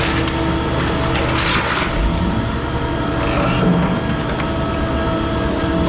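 Scrap metal baler running under load, its motor humming steadily while scrap crunches and cracks as it is compressed into bales.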